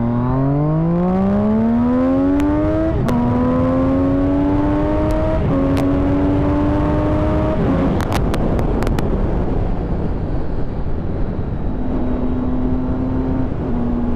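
Triumph Daytona 675's inline three-cylinder engine under hard acceleration, its pitch climbing and then dropping sharply at quick upshifts about three and five and a half seconds in. After another drop near the middle, a few seconds of rushing noise with some sharp clicks follow, then the engine holds a steady pitch at cruise near the end.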